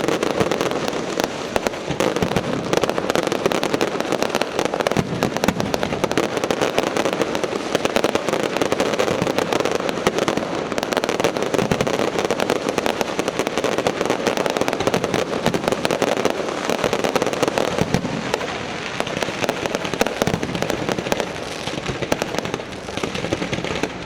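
Fireworks going off in a dense, continuous barrage of crackles and pops, many bursts overlapping with no pause, easing slightly near the end.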